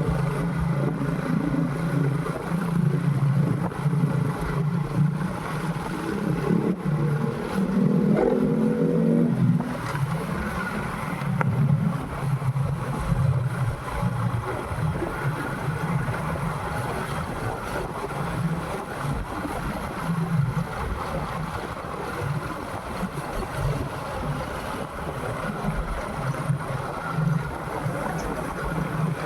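Motorcycle engine running on the move, with wind rushing over the microphone. The engine revs up about eight seconds in, then settles back to a steady run.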